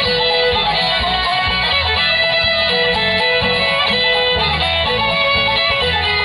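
Bluegrass band playing an instrumental passage with no singing: fiddle leading over acoustic guitar and bass.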